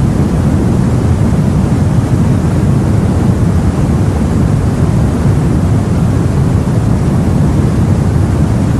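Steady low rumble of open sea and wind, a continuous ambience with no single wave crash or other distinct event standing out.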